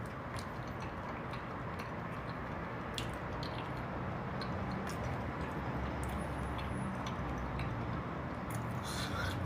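A person chewing food quietly, with small scattered clicks, over a steady low background hum.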